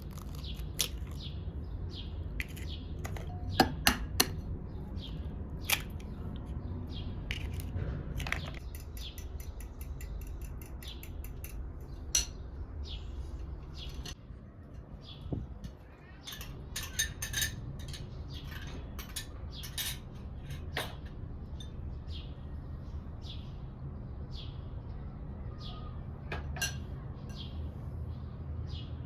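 Birds chirping outdoors, with scattered clinks of metal utensils against dishes over a steady low rumble.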